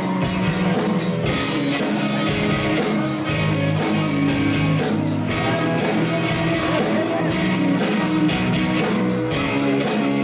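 Rock band playing an instrumental passage between sung lines: guitars over a steady drum beat.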